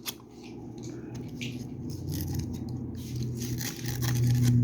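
Fine sandpaper rubbed against a soldering iron's tip to clean it: a run of irregular short scratchy strokes.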